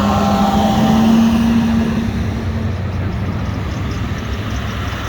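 Fire truck's diesel engine pulling away: a low rumble with a steady droning tone that peaks about a second in, then fades as the truck moves off.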